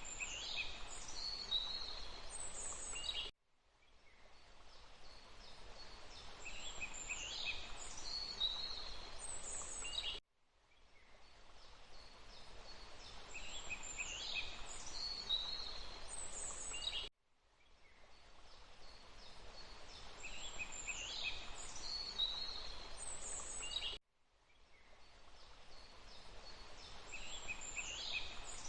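Songbirds singing short chirping and whistled phrases over a steady background hiss. A short nature recording loops about every seven seconds: each repeat cuts to silence for a moment and fades back in, with the same bird phrases recurring.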